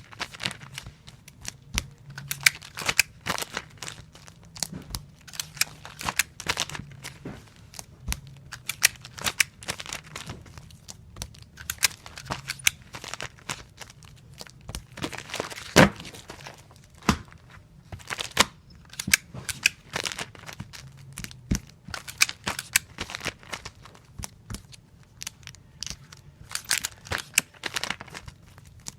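Tape dispenser in repeated use: strips of tape pulled off the roll and snapped off on the cutter, with clicks and crinkling as comic books are taped, in an irregular stream of short rips and clicks several times a second.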